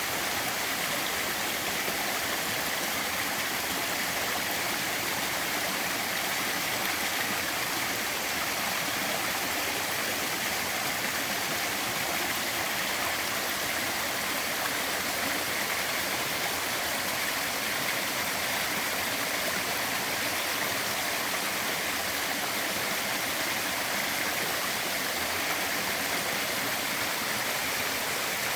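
Small waterfall at a fairly low flow, splashing steadily in an even rush of falling water.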